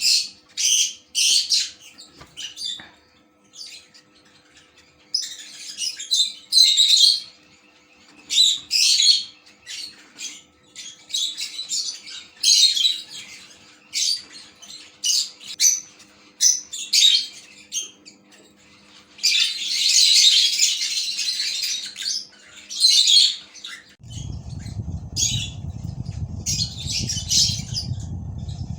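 Caged birds, likely lovebirds, chirping and squawking in short high bursts again and again, with the densest calling around 19 to 22 seconds in. About 24 seconds in, a steady low rumbling noise starts under the calls.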